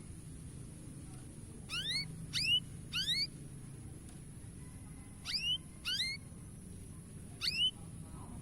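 Canary giving short rising call notes, six in all, in a group of three, then two, then one, over a steady low background hum.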